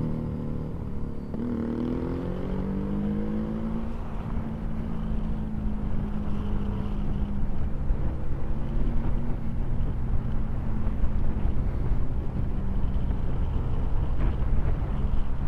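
Motorcycle engine running while riding, its revs dropping at the start and climbing again about two seconds in, then holding steady under road and wind rumble.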